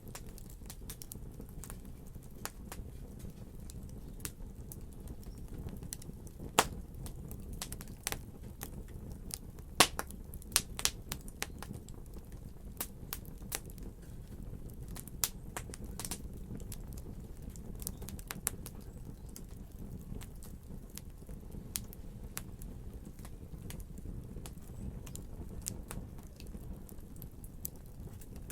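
Fireplace fire burning, a steady low rumble under irregular sharp crackles and pops, with a few louder pops in the middle.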